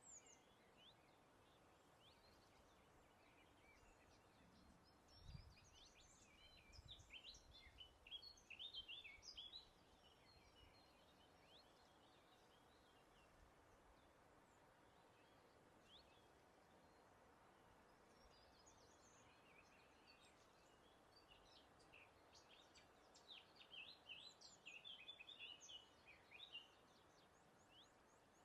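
Faint birdsong: quick high chirps and twitters from small birds in two bouts, one about five seconds in and another from about eighteen to twenty-seven seconds, over a soft steady hiss of breeze.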